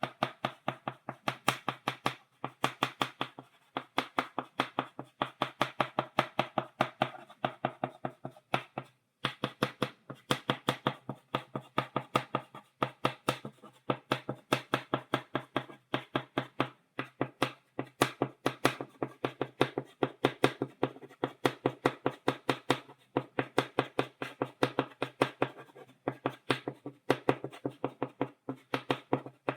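Chalk tapping on a blackboard in quick dotting strokes, several sharp taps a second, with a few short breaks.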